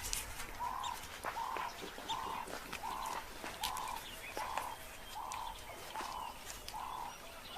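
A bird calling one short hooting note over and over, evenly about every three-quarters of a second, starting about a second in, with faint scattered clicks and rustles.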